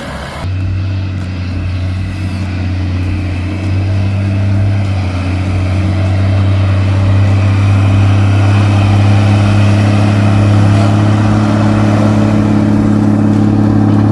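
Tractor diesel engine running steadily under load: a deep, even drone at one pitch that cuts in about half a second in and grows slowly louder.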